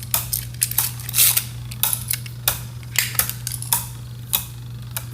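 Spinning Beyblade Burst tops, Spryzen Requiem and Revive Phoenix, battling in a plastic stadium: irregular sharp clicks and clacks, several a second, as they strike each other and the stadium walls.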